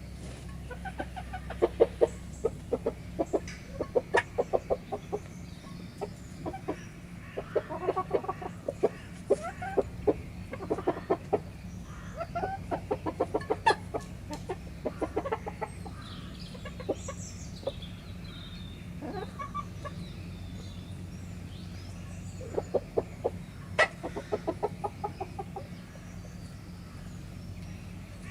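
Chickens clucking while they feed, in quick runs of short notes that come in clusters, with a few sharp taps.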